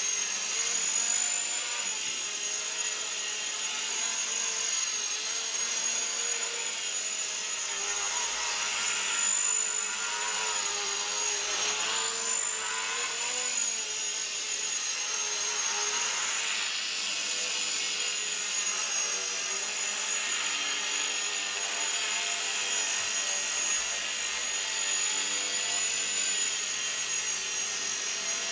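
Walkera CB100 micro electric RC helicopter flying, its motors and rotors giving a steady high whine whose pitch drifts up and down with throttle.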